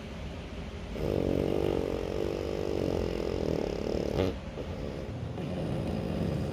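French bulldog snoring: a long, rattling snore of about three seconds starting about a second in, ending in a sharp click. Quieter snoring breaths come before and after it.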